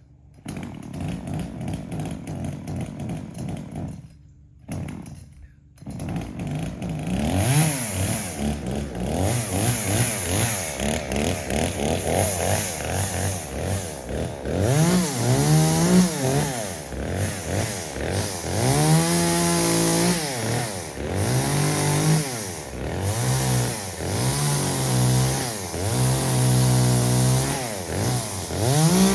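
Gas chainsaw cutting up a felled tree: the engine revs up, holds at a lower, steady pitch as the chain bites into the wood, then falls back, over and over. There are a couple of brief breaks a few seconds in.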